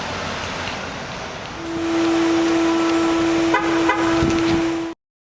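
2008 Hummer H2 running after being remote-started with the key fob. A steady single-pitched tone comes in about one and a half seconds in and is the loudest sound, with two short clicks near the end before it all cuts off.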